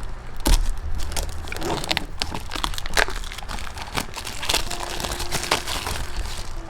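Plastic packaging crinkling and crackling with irregular small clicks as a boxed diecast model car is handled.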